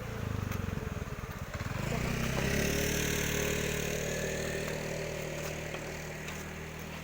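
A motor vehicle engine running. It has a rapid low throb at first, then settles into a steadier hum that swells a couple of seconds in and slowly fades.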